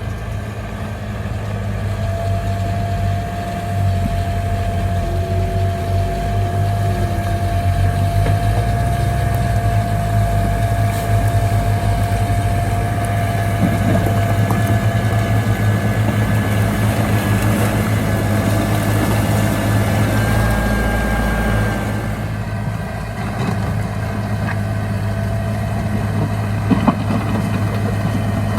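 Heavy diesel engine of a bulldozer running steadily under load, a deep rumble with a thin steady whine over it.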